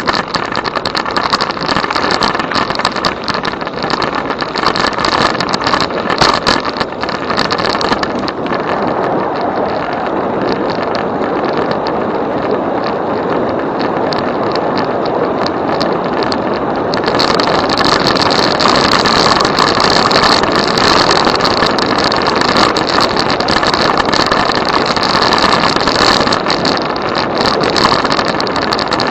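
Steady rush of riding noise on an e-bike: wind on the microphone with tyre noise, a little louder from about seventeen seconds in.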